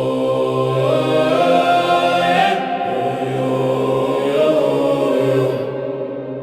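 Nordic ambient music: a choir of voices chanting long held notes over a low sustained drone.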